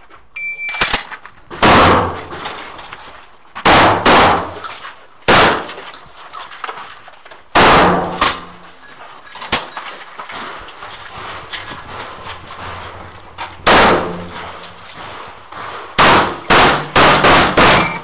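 An electronic shot-timer start beep, then shotgun shots in an IPSC stage. Single shots and pairs come with pauses of a few seconds between them, then a fast string of about six shots near the end.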